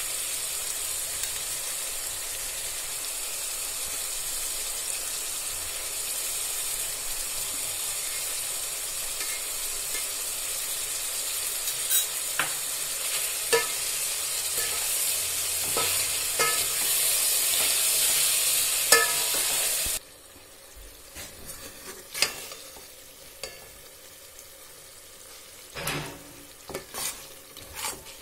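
Chopped tomatoes and onions sizzling as they fry in an aluminium pot, stirred with a steel ladle that clinks sharply against the pot several times. The sizzle cuts off suddenly about two-thirds through, leaving a few quieter clinks and knocks of the ladle.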